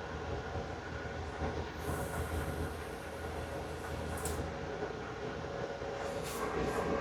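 Steady whirr and low hum from a car amplifier test bench during a 10-second power sweep into a 1-ohm load. The low hum drops away about four and a half seconds in.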